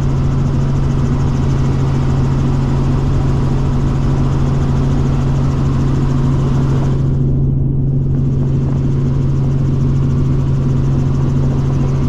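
Robinson R44 helicopter in flight, heard from inside the cabin: a loud, steady drone of engine and rotor with a strong low hum.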